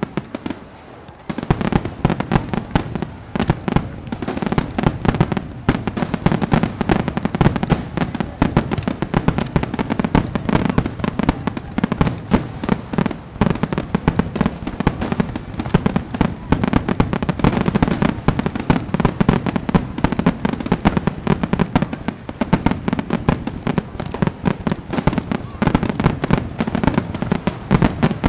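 Fireworks going off in a dense, continuous barrage of rapid crackling pops and bangs over a low rumble, starting after a brief lull about a second in.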